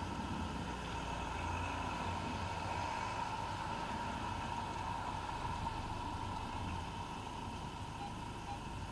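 Car engine running at low speed and idling, heard from inside the car, as a steady hum. Faint repeated beeps, like a reversing alarm, come in near the end.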